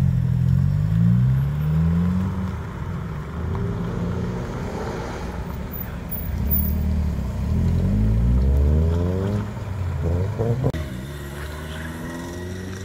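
Car engines accelerating hard, their pitch climbing several times as the cars pull away, with a brief sharp pop about ten and a half seconds in.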